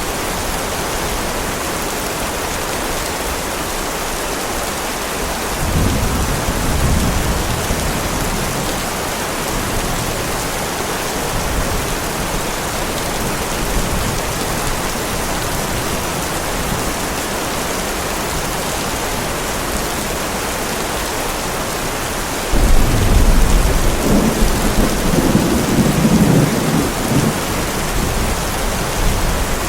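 Heavy, steady rain with thunder: a short rumble about six seconds in, then a louder clap that starts suddenly about three-quarters of the way through and rolls on for several seconds.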